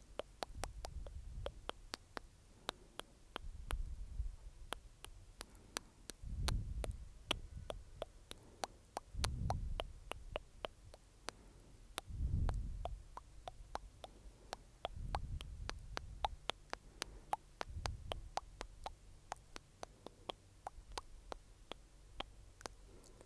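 Close-miked ASMR mouth sounds: a steady run of wet clicks and smacks, a few each second. Low, muffled rumbling swells rise and fade every two to three seconds between them.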